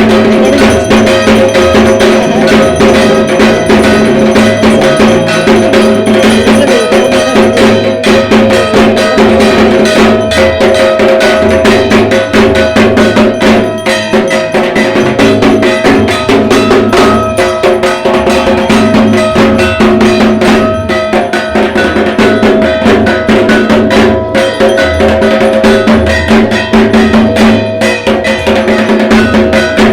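Dhak, the Bengali barrel drums of Durga Puja, played in a fast, nonstop rhythm, with a steady metallic ringing, like a bell-metal gong, sounding over the strokes.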